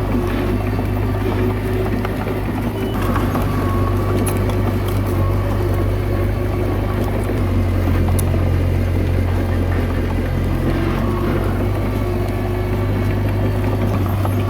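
Komatsu D21A bulldozer's diesel engine running steadily under work, its note shifting slightly about 3 and 7 seconds in.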